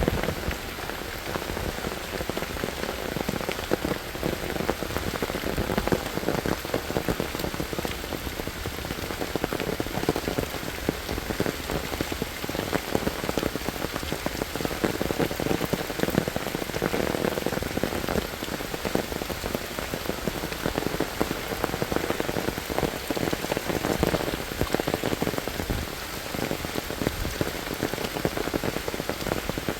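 Steady monsoon rain falling, a dense patter of raindrops hitting surfaces.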